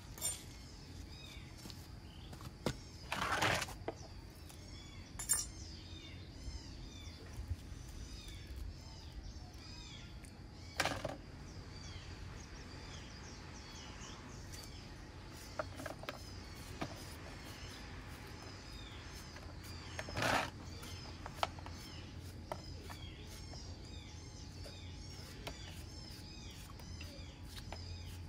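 Birds chirping steadily in the background, with a few short knocks or rustles from handling at about 3, 11 and 20 seconds in.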